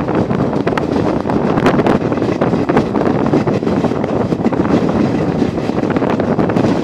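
Running noise of a moving passenger train from a carriage window: a steady rumble with wind on the microphone and frequent irregular clicks and rattles from the wheels and carriage.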